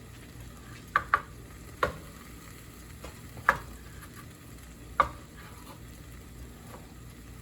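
Chicken strips sizzling in a frying pan, with a utensil clinking sharply against the cookware five times: two quick clinks about a second in, then three more spaced out, each ringing briefly.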